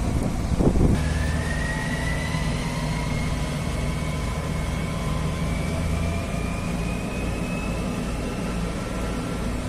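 Rhaetian Railway Ge 6/6 II six-axle electric locomotive with its mixed train: a steady low hum, a loud knock just under a second in, then a thin whine that rises slowly in pitch over the following seconds.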